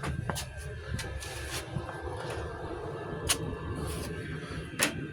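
A few sharp clicks and taps from hands handling tools and materials, over a steady low background hum.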